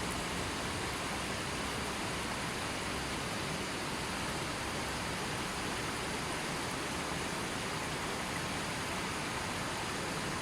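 Steady, even rush of a gently flowing river.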